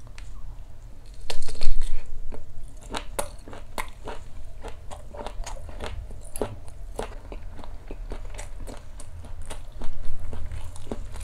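Close-up mouth sounds of a person biting into and chewing a Maxbong fish sausage stick: many short wet clicks and smacks, louder for a moment about a second and a half in and again near the end.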